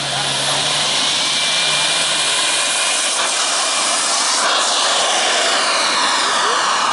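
KingTech K80 turbine of an RC model jet running: a steady loud rush with a faint high whine that drifts slowly in pitch.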